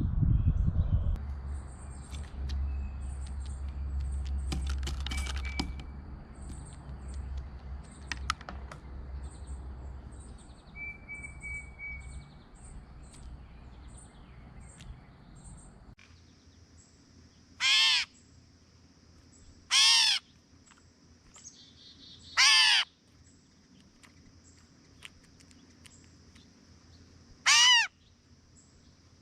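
Gray catbird giving its harsh, cat-like mew call four times at intervals of a few seconds, each call about half a second long. Before the calls, over roughly the first half, there is a low rumble with faint, short high chirps.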